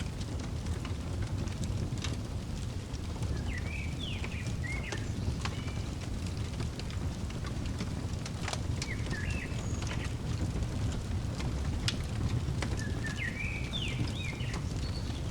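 Fireplace crackling with scattered sharp pops over a steady low rumble, while a small songbird sings three short chirping phrases with quick pitch sweeps.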